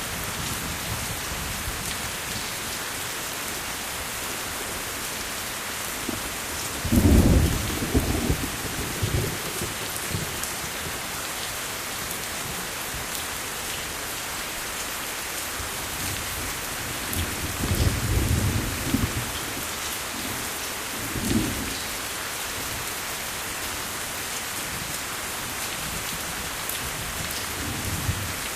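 Steady rain falling, with low rolls of thunder rumbling over it: the loudest about seven seconds in, and two more later on.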